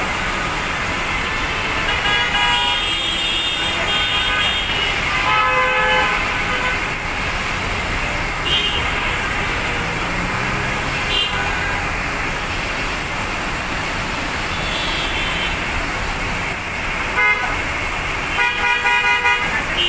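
Heavy rain falling steadily, with vehicle horns honking over it several times on a city street and a quick run of short beeps near the end.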